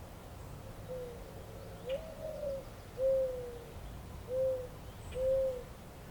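A pigeon cooing: one phrase of about five low, soft coos, the second note the longest and loudest, over a steady low outdoor background hum.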